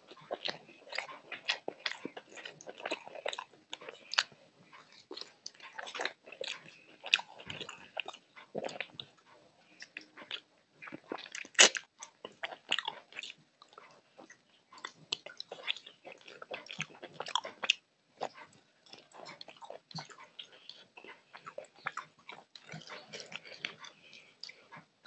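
Close-miked wet chewing and lip-smacking of a person eating rice and curry by hand, a dense irregular run of sharp mouth clicks with one louder smack about halfway through.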